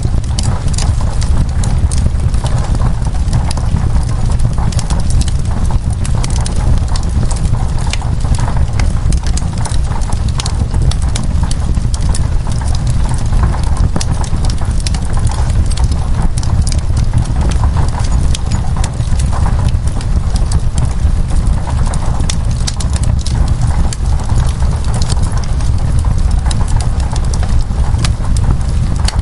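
Wood fire crackling, with frequent irregular sharp pops and snaps over a steady low rumble, mixed with the even hiss of rain on window glass.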